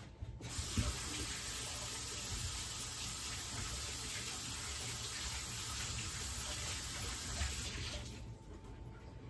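Kitchen tap running into the sink while a hand is rinsed under it; the water comes on about half a second in and is shut off a little under two seconds before the end.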